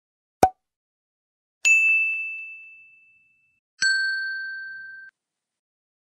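A short pop, then two separate ding sound effects. Each is a bell-like ding that rings and fades out over about a second. The second ding has a lower tone together with a higher one.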